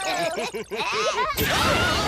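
Cartoon characters' squeaky, chattering gibberish voices, then a sudden noisy crash effect about one and a half seconds in.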